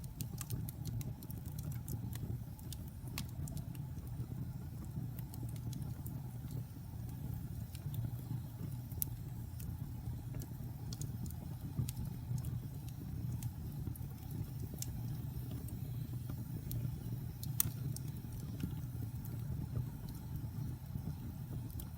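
Wood fire burning in a fireplace: a steady low rumble of flames with scattered sharp crackles and pops, thicker in the first few seconds, and one louder pop near the end.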